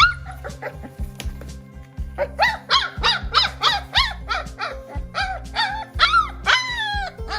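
A puppy crying over background music. Its short, high-pitched yelps and whines come in a quick run, each rising then falling in pitch, starting about two seconds in. A steady low music bed runs underneath.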